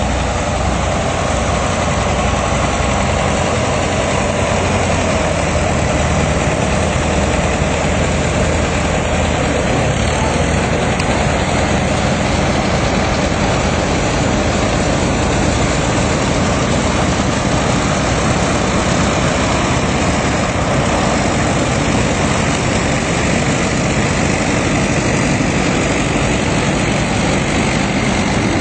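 Antique farm tractor engines running steadily at low speed, with no pauses or sudden changes.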